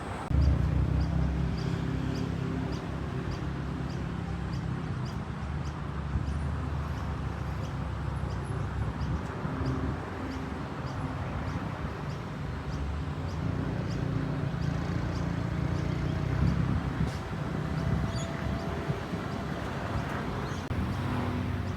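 An engine running steadily with a low, even hum that comes in abruptly at the start, holding roughly the same pitch throughout. Faint regular high ticks sound through the first part.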